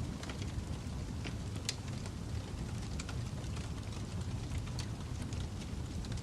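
Wood fire burning in a fireplace: a steady low rumble of flame with scattered sharp crackles and pops from the logs, the strongest about a second and a half in.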